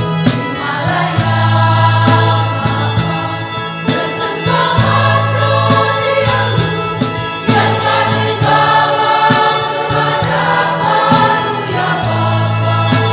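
Church choir singing a hymn in parts, over held bass notes and regular sharp beats from the accompaniment.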